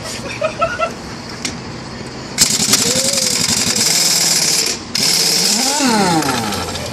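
Impact wrench hammering on a semi truck wheel's lug nuts in two loud bursts. The first starts about two and a half seconds in, and the second follows a brief pause.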